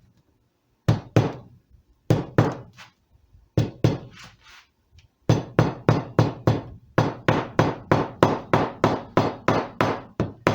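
Small hammer tapping a rosette strip down into its glued channel around the sound hole of a redwood instrument top. Light sharp taps, a few in pairs and threes at first, then from about five seconds in a steady run of about three taps a second.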